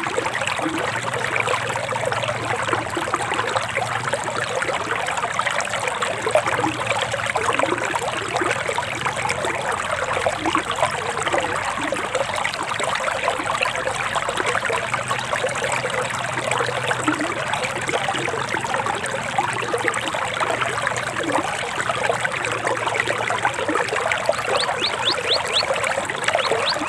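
Forest stream water flowing and trickling steadily. Near the end a bird gives a fast run of short, high chirps over it.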